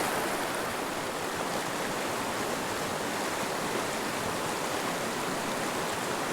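Small mountain river flowing, a steady rush of water.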